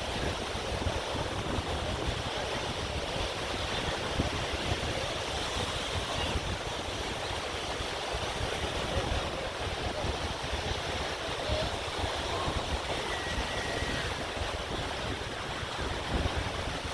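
Ocean surf washing on a beach, a steady rush, with wind buffeting the microphone in low gusts.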